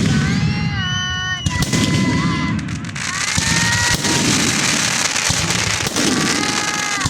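Fireworks going off: a dense run of bangs and crackles, thickest in the middle of the stretch, over a low rumble. Several high whistles rise and hold for about a second, near the start and again near the end.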